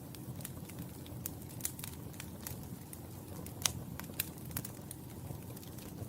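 Wood fire crackling in a fireplace: a steady low rush of flames with frequent sharp pops and snaps, the loudest pop a little past halfway.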